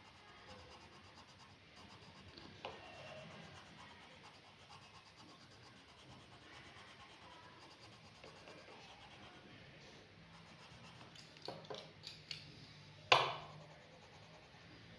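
Pen drawing on paper: faint scratching strokes, with a few small clicks and one louder knock a couple of seconds before the end.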